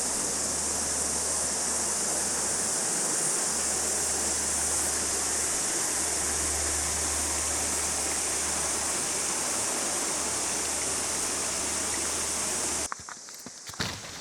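Rushing water from a stream or waterfall, a steady hiss that cuts off suddenly near the end.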